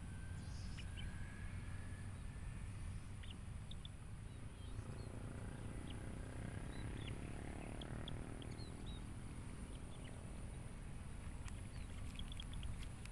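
Lakeside nature ambience: birds chirping in many short, scattered calls over a steady low rumble, with a faint steady high-pitched tone throughout.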